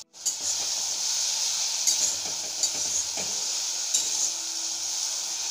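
Onion-tomato masala sizzling steadily in mustard oil in a wok (kadhai) on low flame while a steel spatula stirs it, scraping against the pan now and then.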